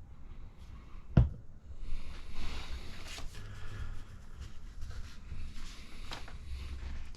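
A sharp knock about a second in, then rustling with a few small clicks: hands handling small parts and packaging on a workbench.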